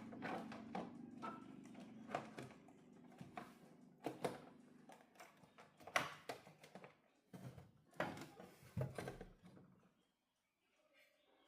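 Irregular light clicks and knocks of handling on a repair bench, over a low steady hum that fades away about seven seconds in. The sound drops out almost entirely about ten seconds in.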